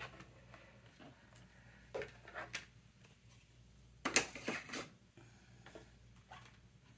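Paper and crafting supplies being handled on a work table: scattered light taps and rustles, with a louder burst of rustling about four seconds in.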